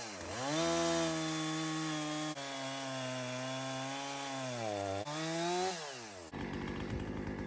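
Gas chainsaw running at high revs with a freshly sharpened chain, cutting into a log. Its engine pitch drops and holds lower partway through as the chain bites, rises again, then falls away about six seconds in to a rough, rapid putter.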